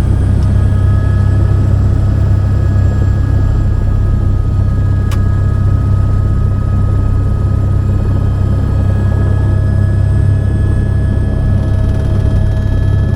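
Helicopter in flight: a steady, loud low drone of rotor and engine, with a steady high turbine whine over it. A single brief click about five seconds in.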